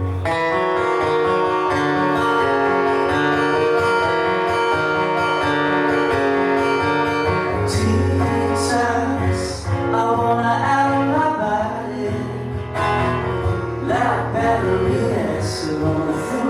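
Live band playing a guitar-led intro: held guitar chords over bass, with cymbal splashes around eight seconds in and near the end. A wavering lead line comes in about ten seconds in.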